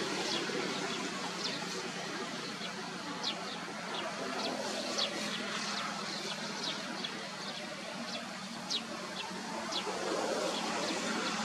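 Small birds chirping in short, high, falling notes scattered irregularly throughout, over a steady low background hum.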